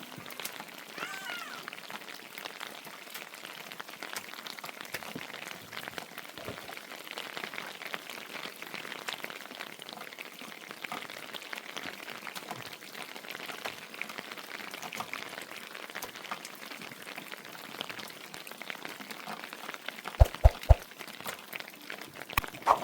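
Steady patter of rain, with a short high animal call about a second in and three or four sharp knocks near the end.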